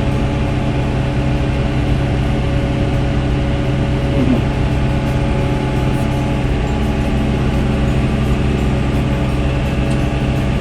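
Farm tractor engine running steadily under load while pulling a hay mower, a constant even drone.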